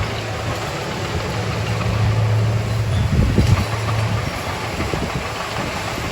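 Komatsu D31A bulldozer's diesel engine running with a steady low hum, with a few short knocks about halfway through.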